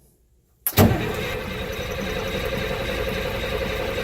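Near silence, then a sudden onset about three-quarters of a second in as the starter begins cranking the M35A2 truck's newly installed engine, turning over steadily on its first start attempt.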